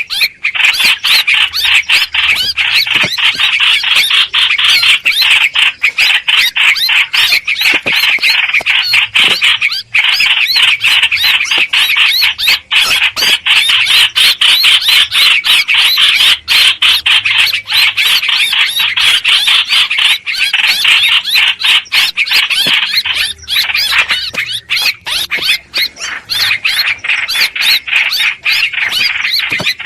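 Hoành hoạch birds calling in a loud, unbroken stream of rapid, high chattering notes: a recorded lure call of the kind used to draw the species into traps.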